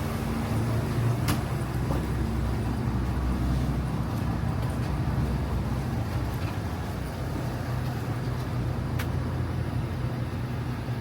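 An engine running steadily nearby, a low even hum, with a couple of faint clicks.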